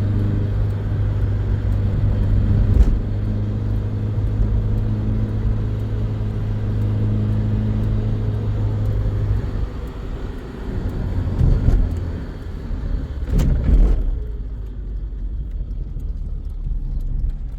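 A vehicle engine running with a steady low hum. About halfway through the hum stops, giving way to an uneven rumble that surges twice.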